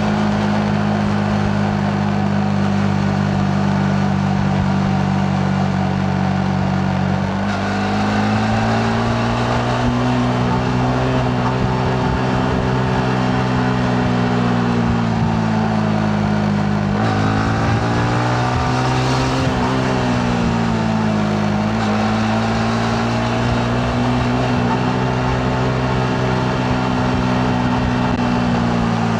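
Yamaha MT-15's 155 cc single-cylinder engine running under way. Its note holds steady for several seconds, then rises and falls with the throttle, shifting abruptly once past the middle and dipping briefly before climbing again.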